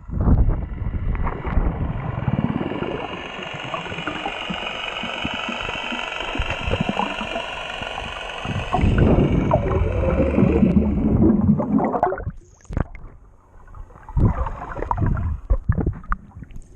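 Water rushing and gurgling around a moving boat, with a steady high whine for much of the time. It quietens briefly near the end, then splashing noise returns.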